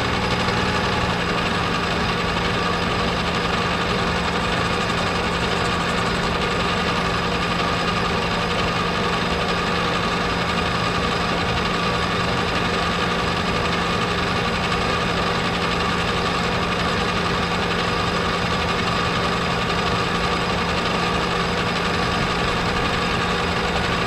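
Metal lathe running steadily, its motor and gears giving a constant whine and hum, while a boring bar takes a light skim cut inside a bushing.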